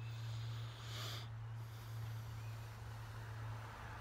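A person breathing out sharply through the nose about a second in, over a steady low hum.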